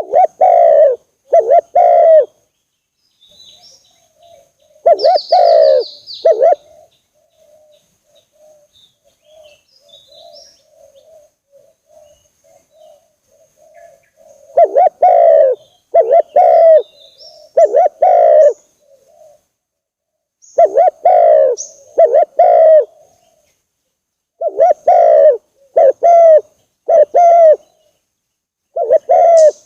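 Spotted doves (tekukur) cooing: loud, deep coo notes in groups of two to four, each group followed by a pause of a few seconds. A soft rolling coo runs between the groups in the first half. Faint high chirps of small birds sound in the background.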